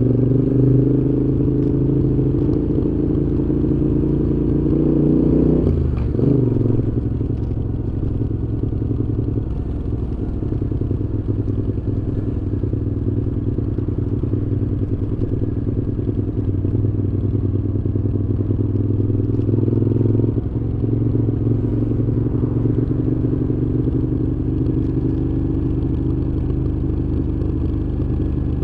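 Moto Guzzi V7's air-cooled transverse V-twin running through a Mistral aftermarket exhaust under way. The revs climb for about five seconds, drop sharply at a gear change about six seconds in, then hold steady at cruise, with another short dip in revs around twenty seconds in.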